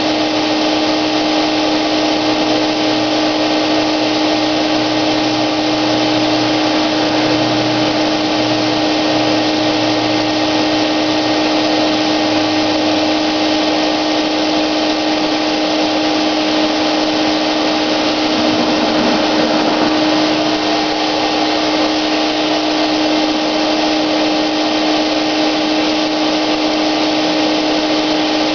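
Wagner electric paint sprayer running steadily, its motor giving a constant whine over a rush of air.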